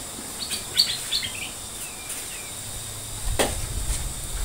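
Birds chirping: a quick run of short high chirps about a second in, then a few lower falling chirps. A low rumble comes in near the end.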